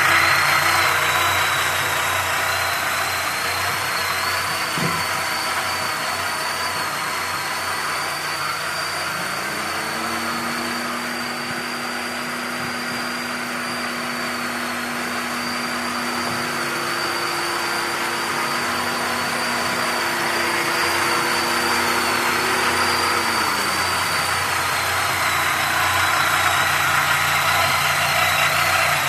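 VW Passat B4's 1.8-litre ADZ single-point-injection engine idling warm, with a thin, steady high-pitched whistle from under the mono-injection throttle body; the whistle only appears once the engine reaches 50–60 °C and its cause is unknown to the owner. A lower hum rises in about nine seconds in and falls away again some fifteen seconds later.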